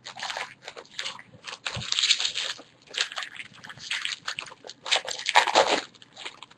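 Trading-card pack wrappers crinkling and being torn open in irregular crackly bursts.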